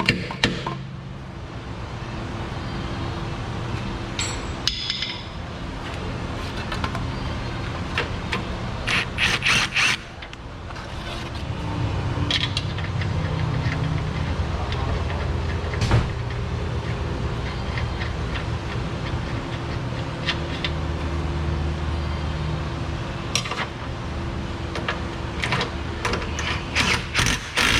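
Metal clicks and knocks of hand work on a Jeep Wrangler's suspension, with a quick run of sharp clicks near the end, over a steady low hum.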